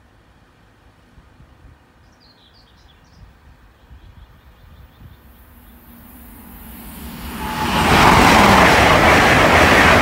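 A few bird chirps, then a ten-car LNER Azuma (Class 800-series IEP) high-speed train approaching: its noise builds over about two seconds and from about eight seconds in the train is passing at speed, loud and steady.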